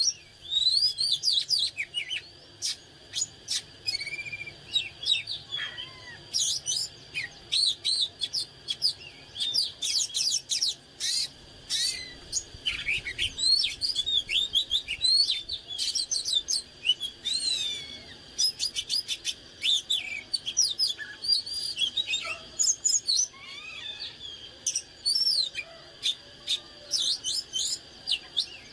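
Oriental magpie-robin singing a long, varied song of quick whistled notes, rising and falling sweeps and sharp clicky notes, with hardly a pause.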